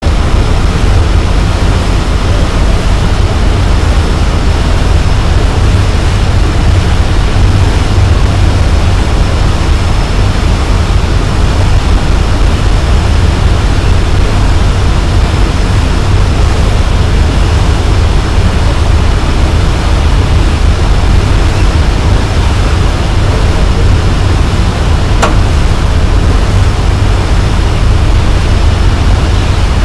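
Loud, steady low rumble and hiss of a boat under way, with no gull calls standing out. There is a single brief click near the end.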